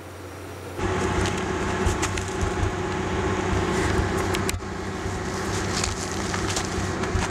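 A car engine idling steadily, with crunching and crackling from footsteps in snow as a tow strap is hooked to a car's bumper; it gets louder about a second in.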